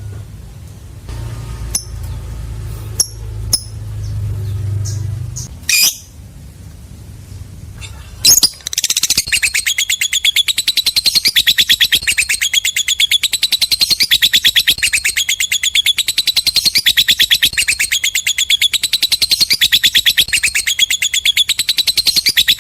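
Lovebird singing its long 'ngekek' chatter: a loud, very rapid run of shrill repeated notes that starts about eight seconds in and keeps going without a break. Before it there is a low hum with a few short sharp chirps.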